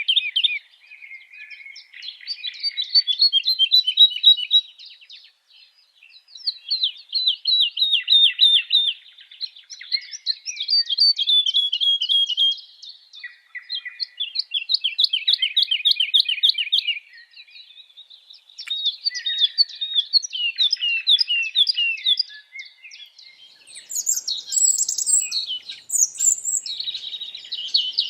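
Small birds singing: rapid chirping trills in repeated phrases of a few seconds each, separated by short pauses, with some higher, sharper notes near the end.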